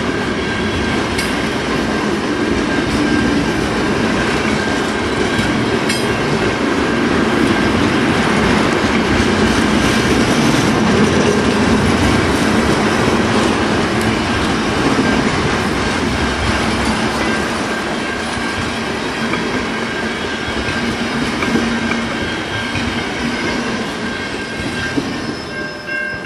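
Loaded tank cars of a freight train rolling past, a steady rumble and clatter of wheels on rail with a constant high-pitched squeal. The sound tapers off as the end of the train goes by, and a horn starts to sound faintly near the end.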